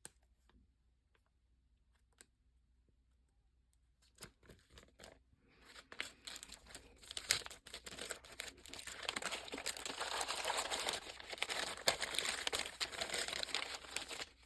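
Crinkling and rustling of plastic packaging being handled. It starts quietly with a few light taps about four seconds in and becomes continuous from about six seconds in.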